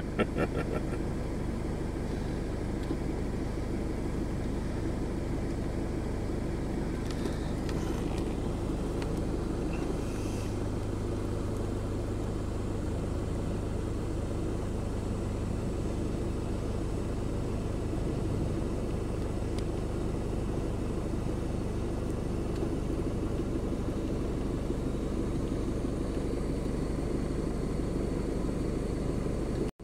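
Truck engine running with a steady low hum; its tone shifts slightly about ten seconds in.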